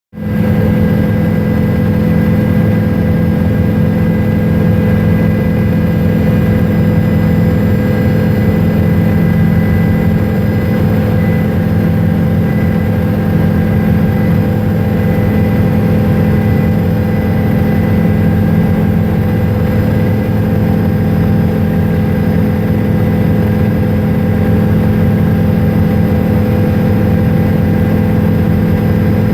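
Helicopter in flight heard from on board: a loud, steady drone of engine and rotor with several held tones.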